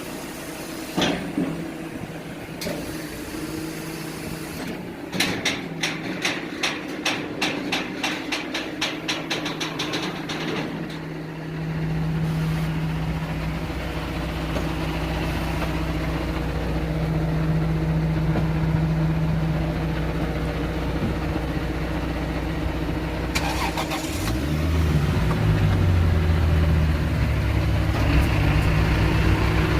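A rapid run of even clicks for several seconds, then a vehicle engine starts and runs steadily. Near the end its pitch shifts and it runs louder.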